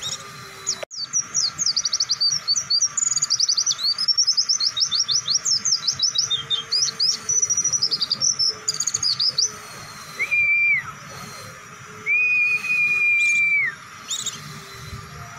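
White-eye (pleci) singing a long, fast run of high twittering chirps for about eight seconds, then two long, level whistles, the second held for about a second and a half.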